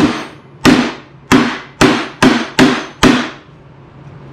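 Hammer striking metal during fabrication: seven sharp ringing blows about half a second apart, coming a little faster toward the end and stopping about three seconds in.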